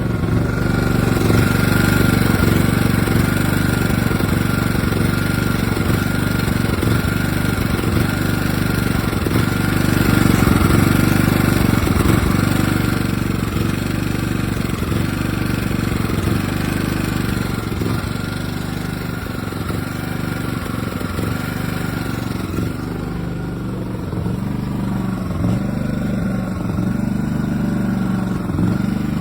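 maXpeedingrods 3500W four-stroke petrol inverter generator running steadily.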